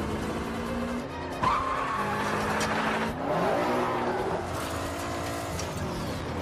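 Racing car engines revving up and down, with tyres squealing and skidding on loose dirt (a sharp squeal about a second and a half in), over a film score.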